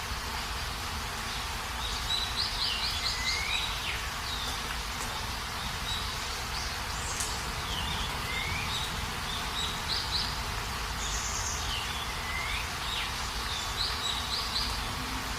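Steady rain hiss with a songbird singing a short phrase of quick high notes and a swooping lower note, repeated about four times.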